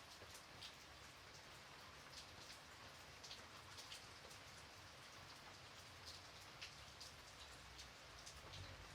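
Faint, gentle rain falling steadily, with separate drops ticking on a surface every so often.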